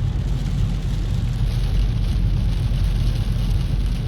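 Car driving along, a steady low road-and-engine rumble heard from inside the cabin.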